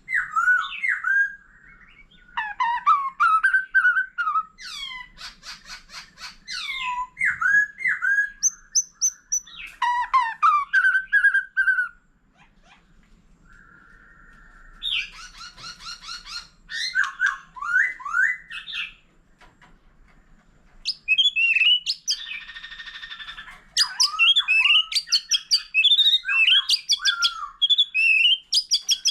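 White-rumped shama singing a varied song of loud whistled phrases, fast trills and chattering notes, broken by two short pauses.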